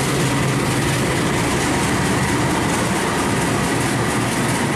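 Passenger train pulling in alongside the platform: a CC206 diesel-electric locomotive's engine running and its coaches rolling past, a loud, steady rumble and rattle.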